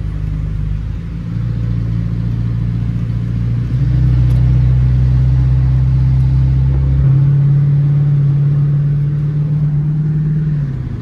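A car engine with a loud exhaust being revved and held steady at several successively higher engine speeds, getting louder about four seconds in, then dropping back near the end.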